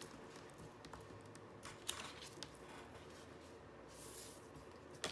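Quiet handling of planner paper pages: a few light taps and clicks, then a brief rustle of paper about four seconds in.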